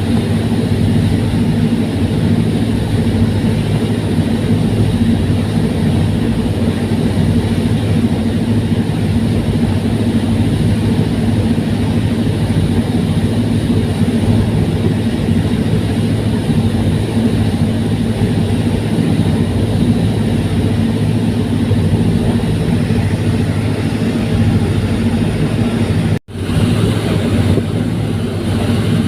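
Fast passenger ferry's engines running with a steady, loud, low drone. It drops out for an instant near the end.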